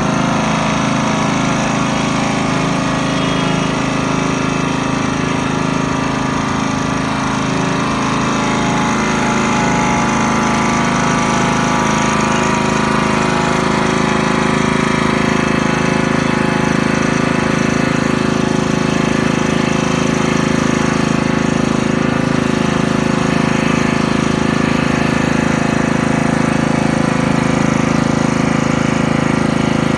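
Honda petrol engine on a sugarcane juice machine, running steadily and driving the crusher.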